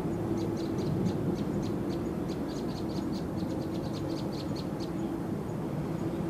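Steady low rumble of distant jet aircraft with a steady hum over it, and a rapid run of high bird chirps that starts just after the opening and stops about five seconds in.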